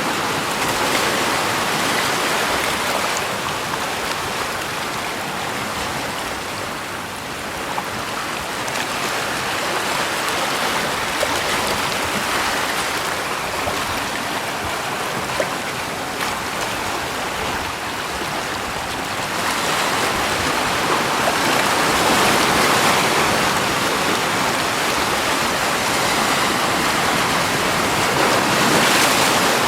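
Rushing water: a steady wash of noise with no distinct splashes, growing louder about two-thirds of the way in.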